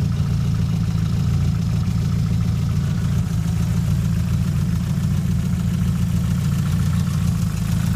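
Turbocharged 2.3-litre stroker 3S-GTE four-cylinder of a Toyota Celica GT-Four idling steadily.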